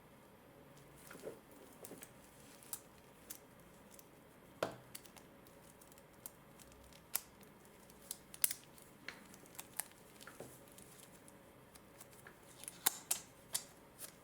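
Stainless steel watch bracelet being handled: irregular small, sharp metallic clicks of the links and clasp, with a louder cluster near the end.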